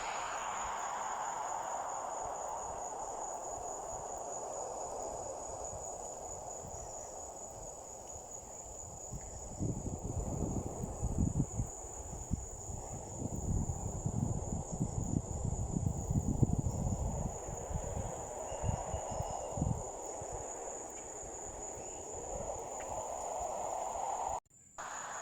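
Crickets trilling steadily in a continuous high-pitched chorus. Irregular low rumbling comes in partway through and fades again, and the sound cuts out briefly near the end.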